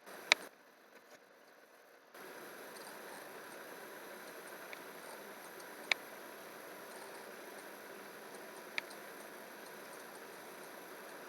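Three short, sharp clicks, the first and loudest right at the start, over a steady hiss that comes on about two seconds in.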